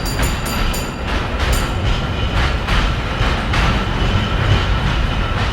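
Train running on the rails, a steady rumble with wheels clacking over rail joints. A rapidly struck bell rings high during the first second.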